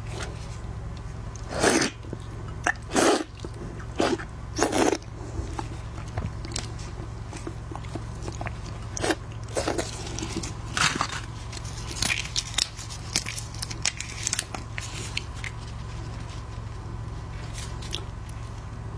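Close-up eating sounds of a person biting into and chewing red devil shrimp: irregular crunches and wet mouth clicks, with several loud bites in the first five seconds and a run of smaller chewing clicks later. A steady low hum runs underneath.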